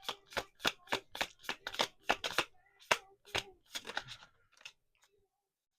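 Tarot cards being shuffled by hand: a quick run of crisp card slaps, about three a second, that stops shortly before the end.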